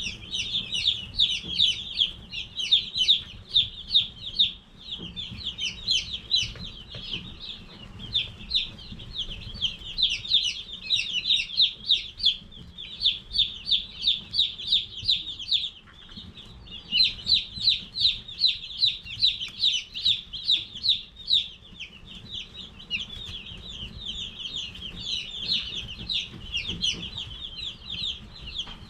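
A brooder full of Cornish Cross chicks peeping: a dense, continuous chorus of many short, high peeps overlapping, with a brief lull about halfway through.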